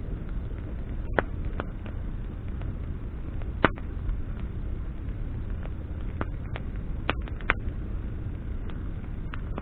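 Wood bonfire burning: burning branches give off scattered sharp crackles and pops over a steady low noise, with the loudest pop about three and a half seconds in.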